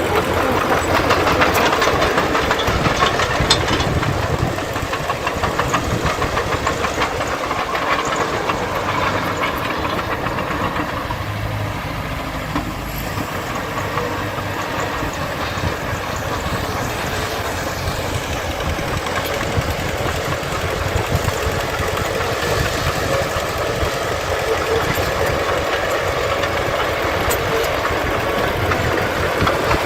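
Diesel engine of heavy earthmoving machinery running steadily with a rough, knocking edge, a little louder in the first few seconds.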